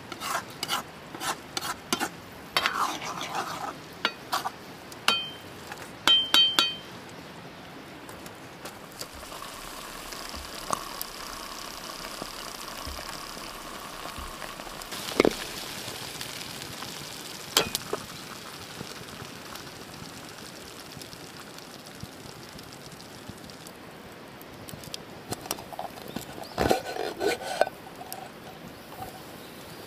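Metal utensils clinking and scraping against an iron wok while food fries. The sharp clinks come thick in the first several seconds, a couple of them ringing briefly, then thin out before more clatter near the end.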